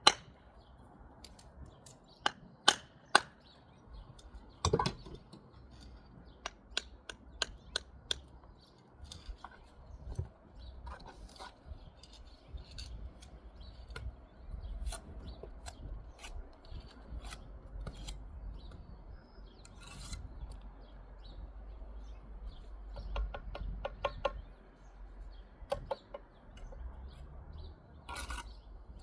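Bricklaying tool work: irregular sharp taps and clicks of a steel trowel on brick and mortar, with scraping in between. The loudest taps come in the first few seconds.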